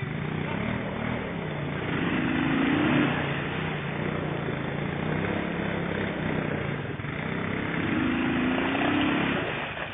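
ATV engine revving under load, its pitch climbing about two seconds in and again near the end.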